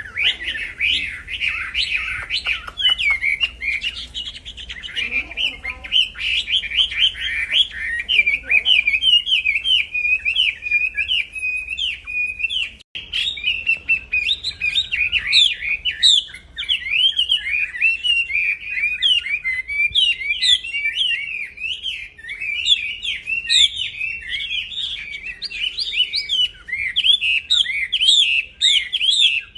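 A wambi songbird singing without pause: a rapid, chattering run of quick high chirps and trills, broken off only briefly about halfway through.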